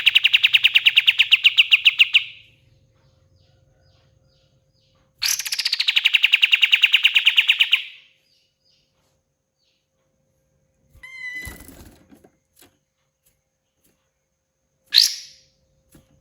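A kapas tembak songbird singing a loud, rapid trill of evenly repeated notes, each trill opening with a high downward-sliding note; the first ends about two seconds in and a second runs from about five to eight seconds. A quieter rustle with short chirps follows around eleven seconds, then a single sharp falling call near the end.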